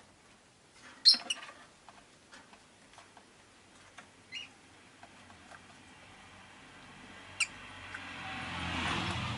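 Rosy-faced lovebirds giving a few short, sharp chirps and clicks, the loudest about a second in. In the second half a vehicle passing outside swells in, loudest near the end.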